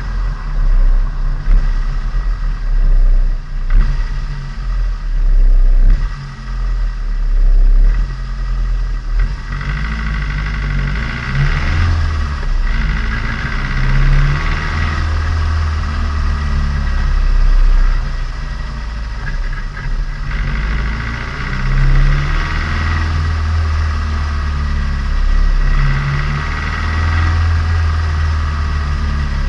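Turbocharged Nissan Micra engine and exhaust, heard onboard while driving, running through a break-in period. The engine pitch rises and falls with the throttle.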